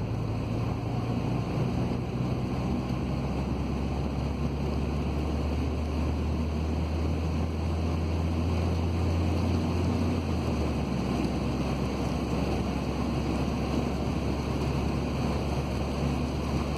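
Car driving in heavy rain: a steady wash of rain and wet-road tyre noise over a low engine drone, whose hum drops in pitch about ten seconds in.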